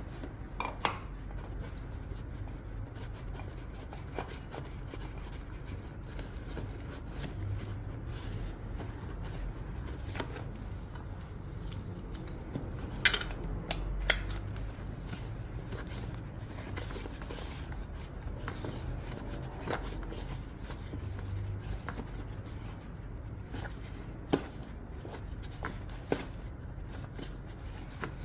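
Scattered light clicks and clinks of metal tools and parts being handled, with a cluster of sharper knocks about halfway through, over a steady low rumble.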